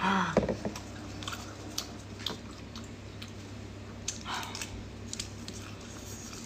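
Close-up eating sounds: chewing, with small wet mouth clicks, of cooked, peeled shrimp. It opens with a brief loud mouth sound, and a faint steady hum runs underneath.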